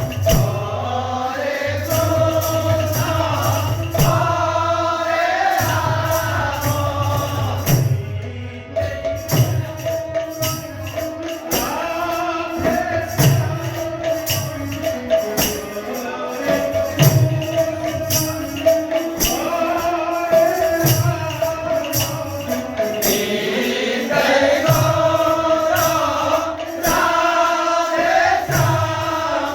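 Kirtan: a group singing a devotional chant together, over a steady beat of jingling metal hand percussion and low drum strokes.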